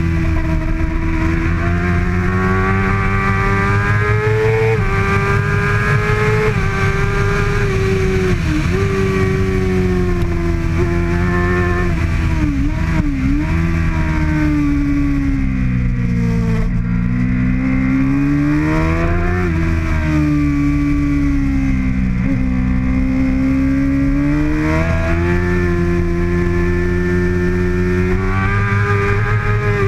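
2013 Kawasaki ZX-6R's 636 cc inline-four engine at race pace. Its pitch climbs and falls over and over as the bike accelerates, shifts and brakes, with quick sharp dips in revs.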